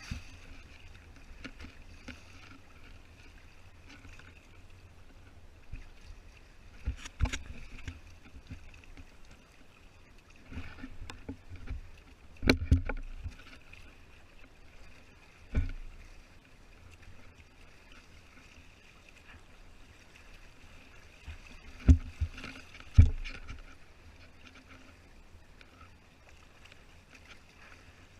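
Water splashing and slapping against the hull of a Hobie Tandem Island kayak under way, over a steady low rumble. Several sudden knocks come at intervals, the loudest two about a second apart past the middle.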